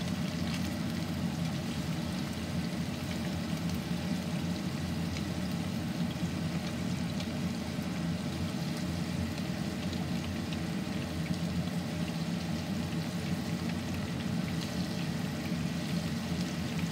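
Cream cheese wontons deep-frying in hot oil in a frying pan: a steady sizzle with scattered small crackles as they near golden brown.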